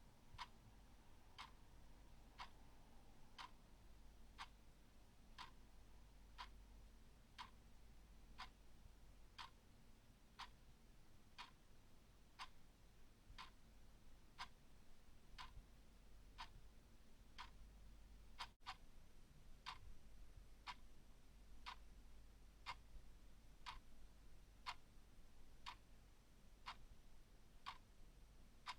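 Clock ticking steadily, with sharp, even ticks at about one a second.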